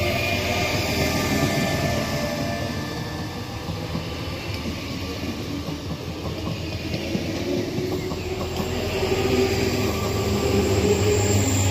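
Z2N double-deck electric suburban train running past on the adjacent track, with steady rumble and wheel-on-rail noise. A motor whine rises in pitch near the end.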